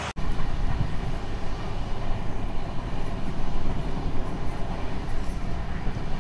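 Sleeper coach of a moving passenger train, heard from inside: a steady rumble of the train running on the rails.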